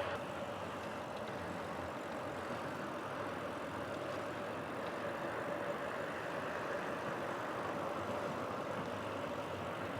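Giant Fastroad SL 2 road bike rolling along at a steady pace: a steady rush of tyre and wind noise with a faint steady hum, and no chain noise from the freshly fixed drivetrain.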